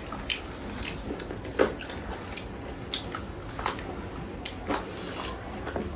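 Eating roast chicken close to the microphone: chewing and biting, with short sharp smacks or crunches about once a second.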